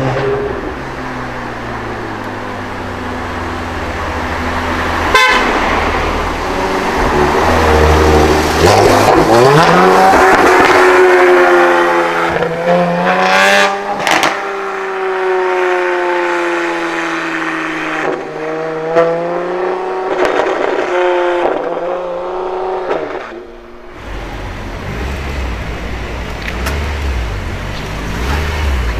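Modified car engines revving and accelerating, their pitch climbing and falling repeatedly, with a single sharp crack about five seconds in. The sound changes abruptly near the end to another car running at lower revs.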